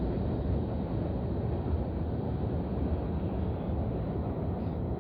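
Steady low rumble of a Norfolk Southern train running across a railroad bridge.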